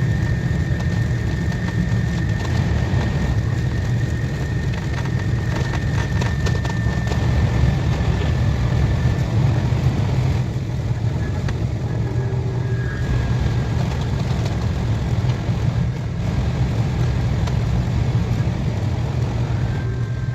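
KTX high-speed train running at speed, a loud steady rumble heard from inside the carriage, with a thin high whine that fades out about halfway through and a few light clicks.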